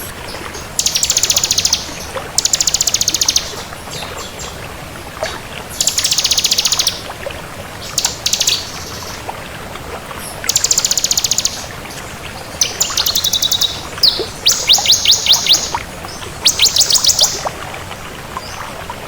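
Ciblek kristal, a bar-winged prinia, singing over and over: high, rapid trills about a second long, separated by short pauses. Near the end the phrases come in more spaced-out, pulsing notes.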